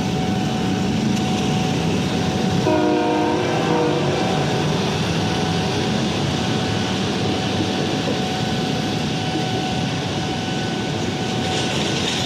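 Train running past with a steady rumble and wheel noise on the rails. A short horn blast sounds about three seconds in.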